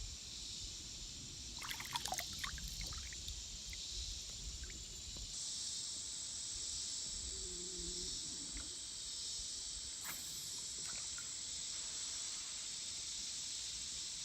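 River ambience heard from a kayak: a steady high insect drone with water trickling against the boat, and a few short splashes and knocks about two seconds in.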